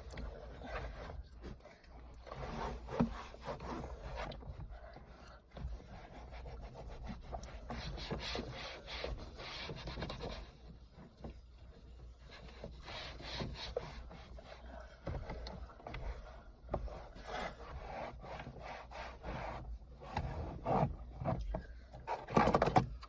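A cleaning cloth rubbing and scrubbing over a car's interior door trim in irregular strokes, with a few louder knocks and bumps near the end.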